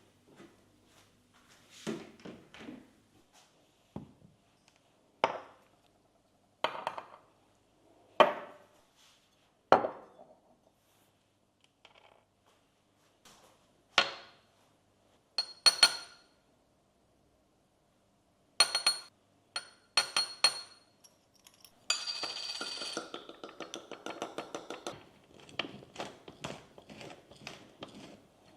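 Kitchenware handled on a counter: a string of separate knocks and thunks as cups and dishes are set down, then a few ringing clinks of a spoon against a glass. From about 22 seconds in comes a fast, continuous run of clinks, a spoon stirring briskly in the glass.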